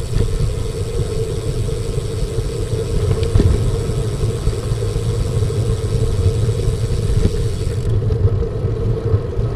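Wind buffeting the microphone of a moving road bicycle, a loud steady low rumble, with a faint high whine that stops near the end.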